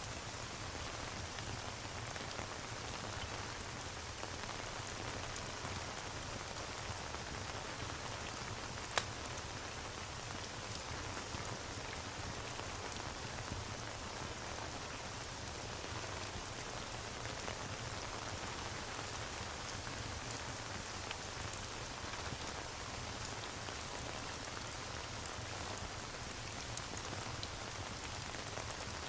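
Steady rain ambience with a fireplace crackling under it: scattered faint pops, and one sharper pop about nine seconds in.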